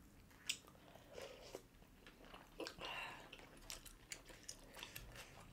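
Faint chewing and mouth sounds of people eating birria tacos, with scattered small clicks; the sharpest click comes about half a second in.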